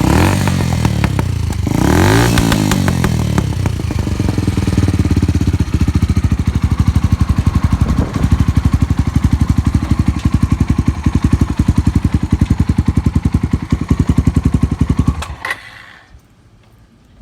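Suzuki Grasstracker's single-cylinder engine through a Supertrapp 4-inch megaphone full exhaust. It is blipped twice near the start, then idles with even pulses, and is switched off a couple of seconds before the end. It runs with no unusual noises.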